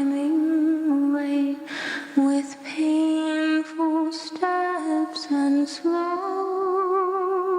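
A solo voice humming a slow, wordless carol melody, holding each note with a light vibrato and taking a breath about two seconds in.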